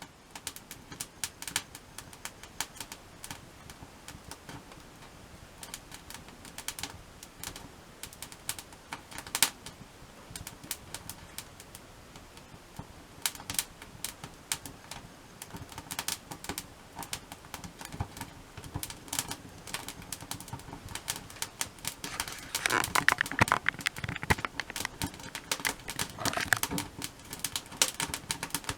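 Wood fire crackling, with irregular sharp pops and snaps. The crackling grows denser and louder for a few seconds a little over two-thirds of the way through.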